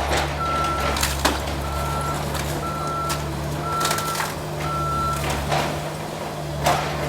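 Heavy machine's backup alarm beeping about once a second over a steady low diesel engine hum, with the beeping stopping about five seconds in. Several sharp cracks and crunches of demolition debris break in between.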